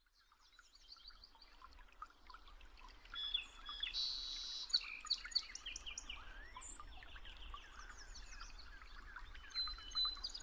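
A flock of small birds chirping and calling together, many short rapid notes overlapping. It fades in from silence over the first two or three seconds.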